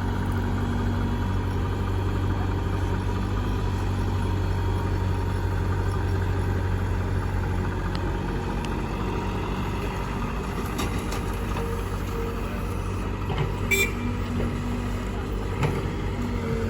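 Heavy diesel engine running steadily at low revs. A sharp metallic clank rings out about 14 seconds in, with a smaller knock shortly after.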